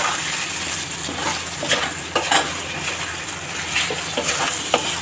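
Spiced mutton frying in oil in a metal pot, sizzling steadily while a spatula stirs it, with scattered scrapes and clicks of the spatula against the pot. This is the bhuna stage, the masala being fried down with the meat.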